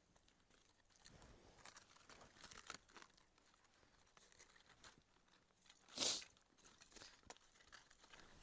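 Faint crinkling and tearing of dry birch bark being handled and torn to start a campfire, with one louder short rasp about six seconds in.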